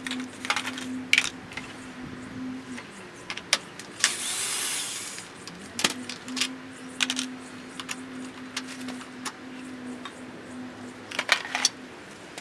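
Hand tools and small metal parts clinking and tapping while a Honda HR214 lawnmower engine is taken apart around the carburetor. A short hiss comes about four seconds in, and a faint steady hum runs underneath.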